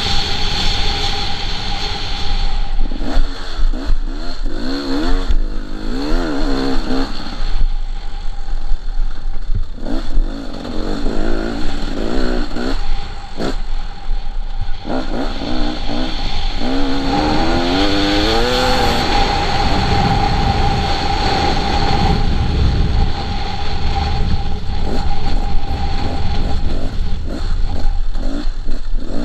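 KTM 300 two-stroke dirt bike engine being ridden hard: it revs up and falls back again and again, with short throttle-offs between bursts.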